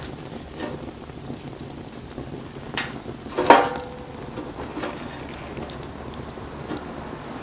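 Wood bonfire crackling steadily with scattered small pops, and a sharp, louder crack about three and a half seconds in, just after a smaller one.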